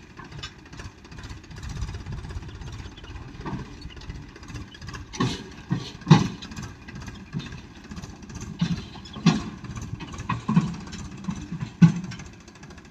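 Farm machinery diesel engine running steadily, with a series of irregular, loud knocks and clunks, the loudest about halfway through and near the end.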